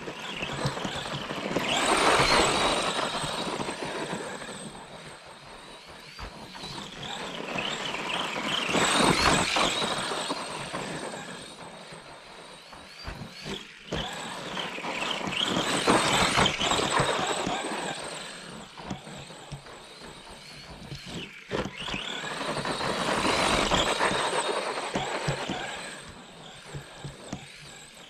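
ARRMA Granite 4X2 Boost RC monster truck's brushed electric motor whining with gear and tyre noise, growing loud and fading away four times, about seven seconds apart, as the truck drives past or toward and away from the microphone.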